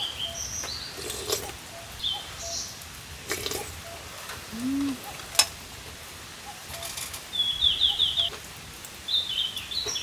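Wild birds chirping with short high calls, one giving a quick run of falling notes about three quarters of the way in. A sharp click comes about halfway.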